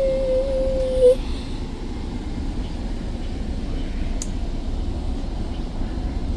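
A falling tone that stops about a second in, over the steady low rumble of a GO Transit commuter train pulling out after its doors have closed; a sharp click about four seconds in.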